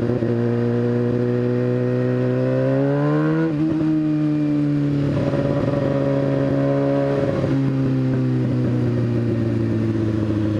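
2015 Kawasaki ZX-6R's inline-four engine accelerating in gear. Its pitch climbs for about three seconds and drops sharply at an upshift about three and a half seconds in, then runs at a steadier pitch.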